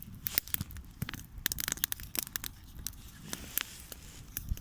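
Campfire with freshly added straw burning, crackling in quick, irregular snaps and pops.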